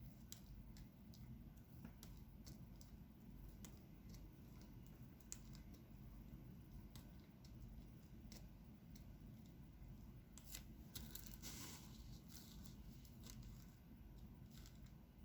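Faint, irregular small clicks and taps of diamond-painting work: resin drills being picked up and pressed onto the sticky canvas with a drill pen. A brief rustle comes about two-thirds of the way in.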